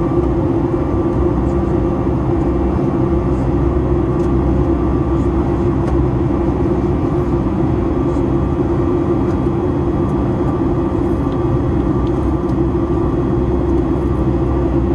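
Boeing 737-9 MAX cabin noise: the steady running of its CFM LEAP-1B jet engines and rushing airflow, with a low hum and a faint steady whine, unchanging throughout.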